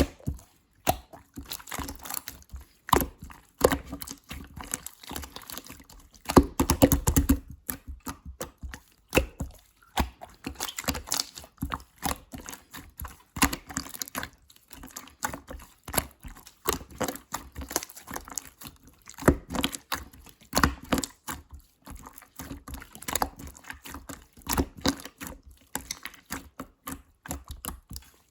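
Clear slime being squeezed and pressed by hand, making dense, irregular wet clicking and crackling, with a louder bout about six seconds in.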